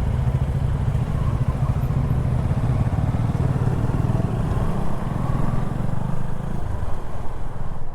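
KTM 390 Adventure's single-cylinder engine running steadily while riding, with a low, even hum and some road and wind noise.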